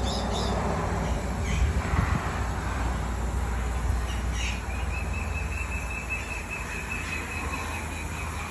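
A bird chirping a few times, then a rapid trill held at one pitch for about four seconds from about halfway in, over a steady outdoor background noise.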